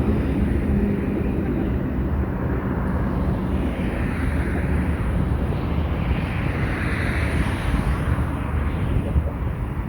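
A vehicle running steadily: a low engine hum under an even rushing noise, which swells for a few seconds in the middle.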